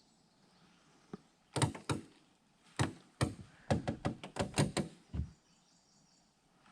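A series of about a dozen sharp knocks and taps, irregular and bunched, starting about a second in and stopping a little after five seconds.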